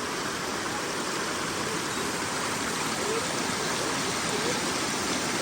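A small mountain stream running, giving a steady, even hiss of flowing water.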